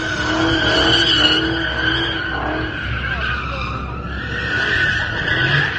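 Car tyres squealing continuously under a revving engine, the shrill squeal wavering in pitch: a car doing burnouts or donuts.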